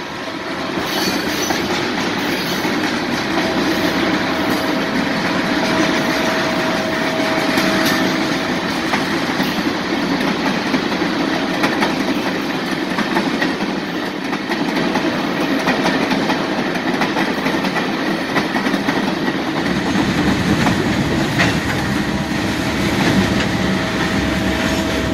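A train rolling past close by: a steady rumble of railcars with scattered clicks from the wheels on the rails. A thin, faint wheel squeal comes and goes, and the low rumble grows heavier near the end.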